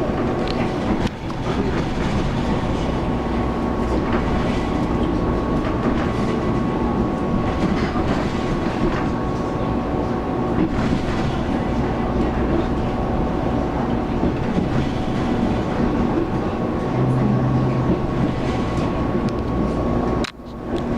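Running noise heard inside a Taiwan Railways local passenger train on the move: a steady rumble of wheels on rail with a thin steady whine over it. The sound drops away sharply for a moment near the end.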